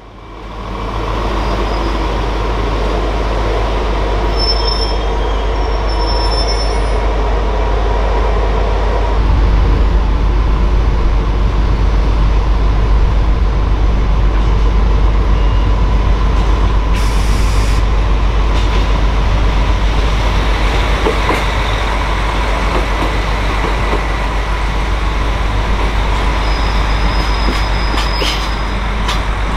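A freight train passing close at low speed: a DF200 diesel-electric locomotive running and JR Freight container wagons rolling by in a steady loud rumble. A thin continuous squeal from the wheels runs through it, and it grows a little louder about nine seconds in.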